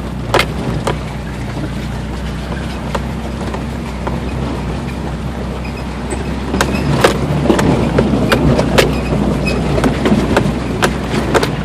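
Nissan Xterra creeping over a rough mountain road, heard from inside the cabin: a steady low engine and drivetrain drone with irregular clicks and knocks from the rocky road, which grow busier and louder from about six and a half seconds in.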